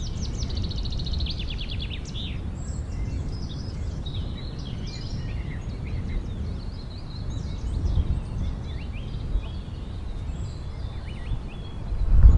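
Songbirds singing: a fast high trill in the first two seconds, then scattered short chirps, over a steady low rumble.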